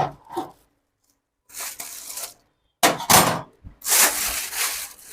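Packaging rubbing and scraping in several noisy bursts as the subwoofer is handled out of its box, after a few light clicks and a short silence.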